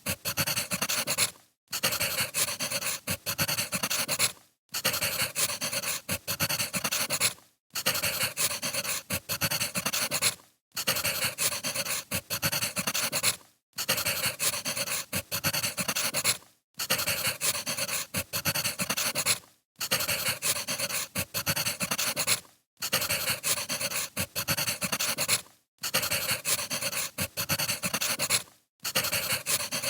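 Crackling firewood fire, a dense steady crackle that drops out briefly about every three seconds.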